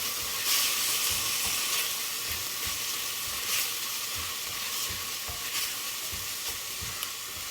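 Chopped onions and ginger garlic paste sizzling in a hot pan while being stirred, with a steady frying hiss and a spoon knocking against the pan now and then.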